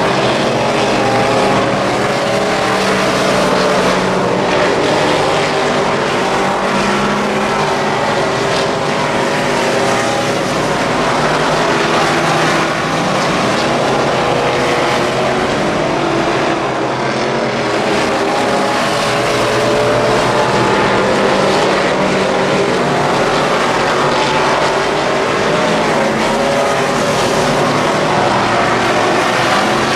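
Wissota Midwest Modified race cars' V8 engines running at speed on a dirt oval, several engines at once, their pitch rising and falling through the corners.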